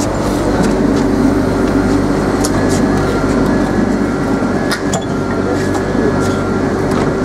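Renfe electric commuter train drawing into the platform and coming to a stand: a steady electric hum from its motors and equipment over running noise, with a few sharp clicks and faint thin high tones from about two seconds in.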